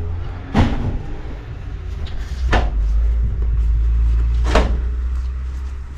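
Three sharp knocks or clacks about two seconds apart, over a steady low rumble.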